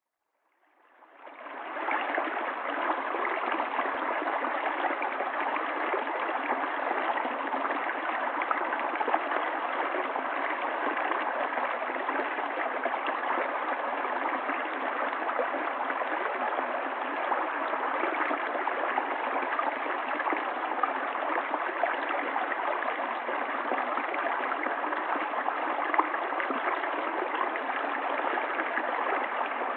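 Stream water running and gurgling steadily, fading in over the first couple of seconds.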